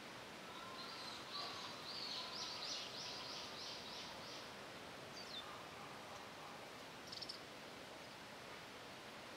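A small bird singing a run of about ten quick, high repeated notes over a steady outdoor hiss, then a single short chirp a second later.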